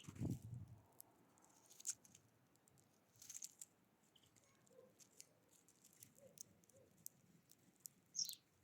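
Faint scattered pecks and taps of small birds feeding at a bird feeder. There is a soft low thump at the start and a short, high, falling chirp near the end.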